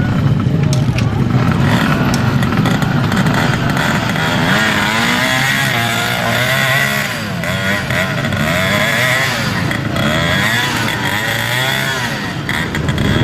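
Dirt bike engines revving up and down over and over, the pitch rising and falling as the throttle is worked; more than one bike can be heard at once.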